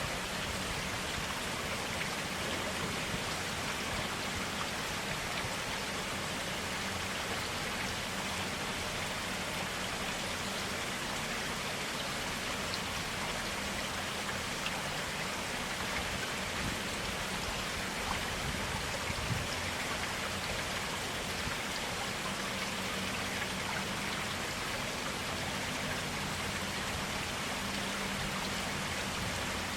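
Forest stream water flowing steadily, an even rush with small splashes here and there.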